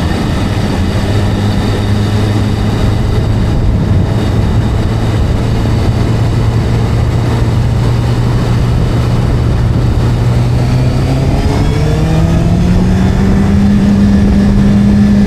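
Motorcycle engine running at a steady pitch, then rising in pitch from about eleven seconds in as it accelerates.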